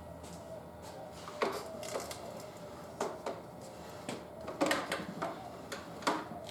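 Tyre levers scraping and clicking against a motorcycle wheel rim and tyre bead as the second bead is worked off the rim: irregular sharp clicks and knocks, several close together in the second half.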